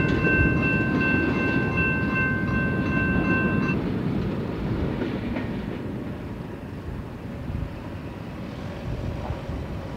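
Wheels of a BNSF manifest freight train's boxcars rolling over the rails with a clickety-clack, fading steadily as the end of the train moves away. A steady ringing, likely the grade-crossing warning bell, carries on over it and stops about four seconds in.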